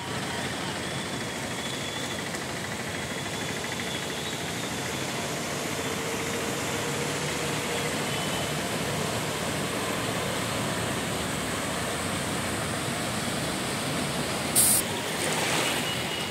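Steady hiss of heavy rain on a flooded road, with vehicles driving through the floodwater. A short sharp noise cuts in near the end.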